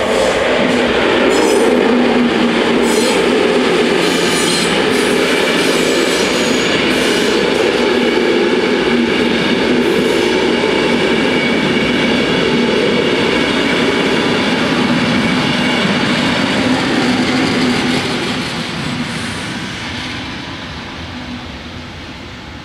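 Belgian electric multiple unit train passing a level crossing at close range. Its wheels click repeatedly over the rail joints in the first half. The train noise fades away over the last few seconds.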